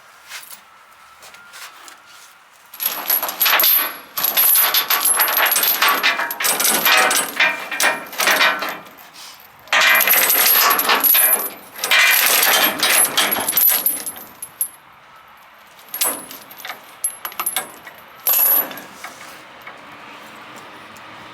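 Steel tie-down chain rattling and clanking link on link as it is pulled and thrown over an excavator bucket, in two long runs of dense rattling followed by a few separate clanks.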